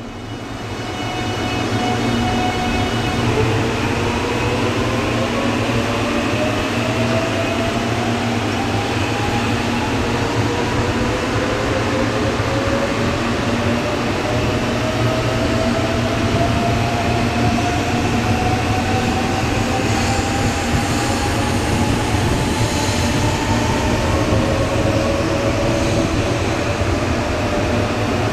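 Shinkansen bullet train pulling out of a station and accelerating. A steady rumble runs under several whine tones that climb slowly in pitch as it picks up speed.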